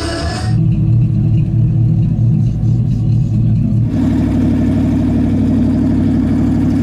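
A vehicle engine running hard with a low, uneven rumble. About four seconds in it settles into a steady, higher-pitched note.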